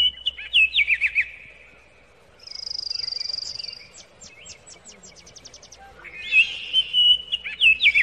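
Birds singing: phrases of clear whistled notes with quick downward slurs, a buzzy high trill a couple of seconds in, then a rapid run of short notes, before the whistled phrases return near the end.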